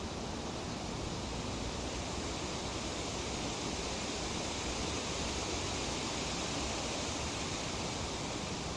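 Breeze rustling through tree leaves: a steady, even hiss that grows a little brighter around the middle.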